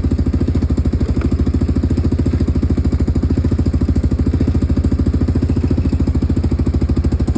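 Yamaha Grizzly 600 ATV's single-cylinder four-stroke engine idling steadily, with a fast even beat.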